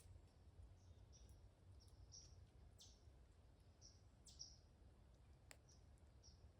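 Small birds chirping faintly in the woods: short high chirps every half second or so, some sweeping down in pitch, over a low steady rumble. One sharp click comes near the end.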